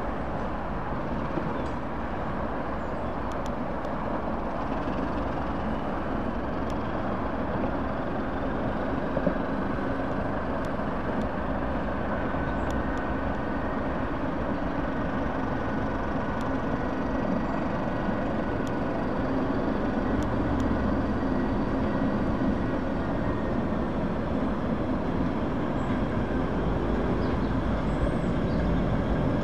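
Slow-moving train propelled by a British Rail Class 08 diesel shunter: a steady diesel rumble mixed with wheels running on the rails, growing slowly louder as the train draws near.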